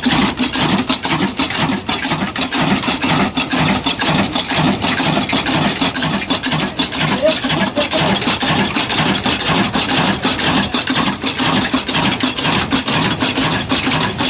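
Old 26 hp, 300 rpm stationary 'black engine' running steadily, a continuous rhythmic mechanical beat.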